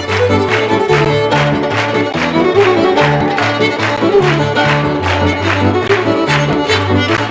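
Live Scottish traditional tune led by fiddle over a moving bass line, played at a lively, steady beat.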